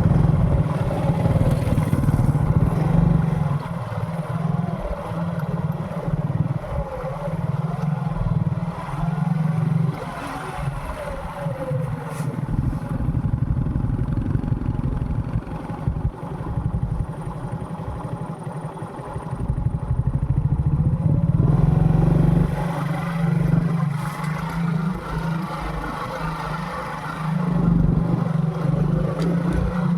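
Motorcycle engine running while riding, its revs and level rising and falling over the ride.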